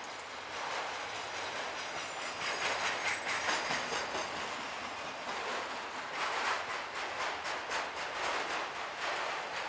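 Freight train of enclosed autorack cars rolling past: a steady rush of steel wheels on rail that swells unevenly every second or so, with bursts of clacking as wheel sets cross the rail joints.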